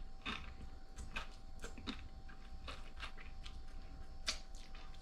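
A person chewing crunchy fried crappie: an irregular run of faint, crisp crunches and mouth clicks, one a little louder about four seconds in.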